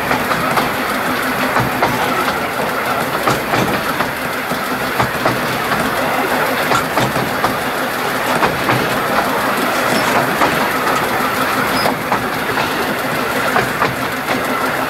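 Narrow-gauge train running along the track: a steady rumble with irregular clicks of the wheels over the rail joints.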